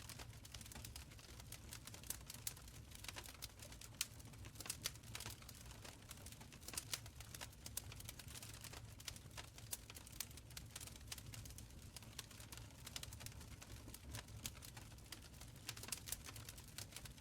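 Wood fire crackling in a stone fireplace: irregular sharp pops and snaps over a low steady rumble of the flames.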